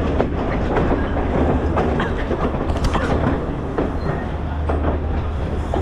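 Passenger train heard from on board: a steady low rumble from the running gear, with irregular clacks and knocks of the wheels over the rail joints.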